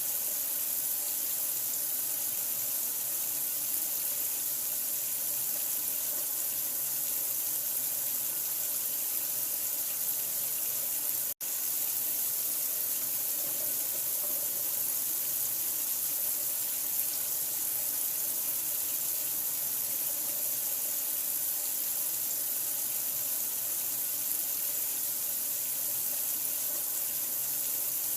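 Steady running water, an even rushing hiss used as a sleep sound for newborns, with an instant's dropout about 11 seconds in.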